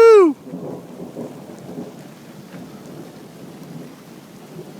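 A loud shouted 'woohoo!' at the start, then an uneven low rolling rumble of thunder with rain falling and faint scattered drop ticks.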